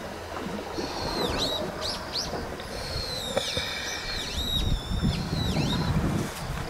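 Birds calling over and over, each call a quick whistle that swoops down in pitch and back up, over a steady low rushing noise.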